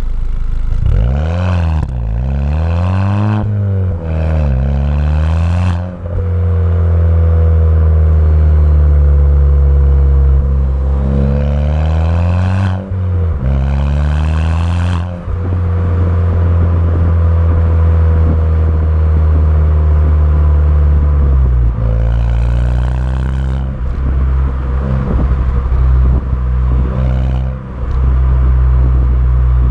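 Car engine through a Milltek cat-back race exhaust, revved from outside. Several quick rises and falls in pitch come first, with two long stretches held at raised revs. It drops back to a lower, steady idle about two-thirds of the way in.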